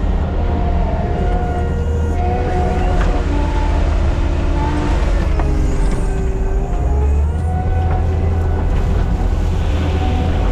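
Skid steer's diesel engine running steadily under load, with intermittent squealing tones that slide in pitch over the engine rumble.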